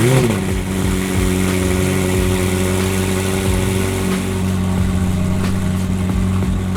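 Car engine revs up briefly and falls back at the start, then settles into a steady idle.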